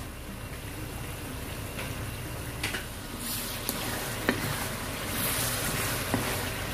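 Bagoong alamang (shrimp paste) sizzling in oil in a wok while a spatula stirs it, with a few sharp clicks of the spatula against the pan.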